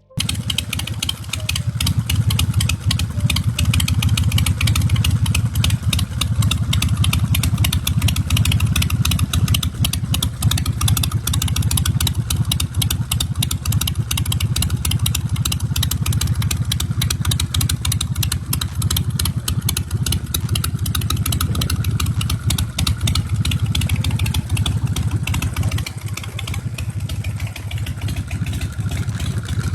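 2001 Bourget Python chopper's 117 cubic-inch S&S V-twin engine running steadily near idle, with a slight drop in level about 26 seconds in.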